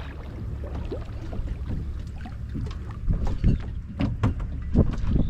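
Water sloshing around a person wading into the water, with a steady low rumble and a scatter of short knocks and splashes, busiest in the last couple of seconds.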